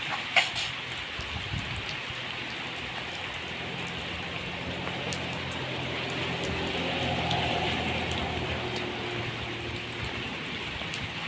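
Steady rain falling, a hiss of many drops, with a sharp tap about half a second in and a faint low hum through the middle.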